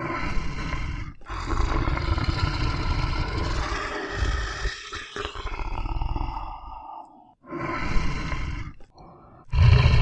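Tiger roaring: a long, drawn-out roar with a brief break about a second in, then two shorter roars near the end.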